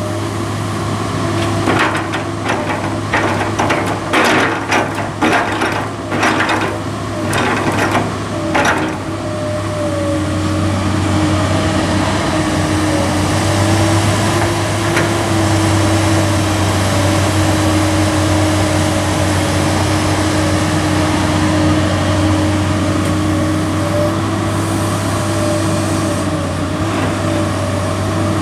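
Excavator's diesel engine running steadily, with a dense run of knocks and clatter in the first nine seconds or so as the bucket digs and loads red soil into a dump truck.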